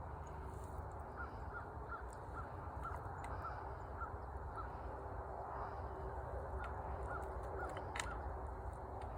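A bird calling a quick series of short, repeated notes, about two a second, in two runs, over a steady low background noise. A few faint clicks are heard, the sharpest about eight seconds in.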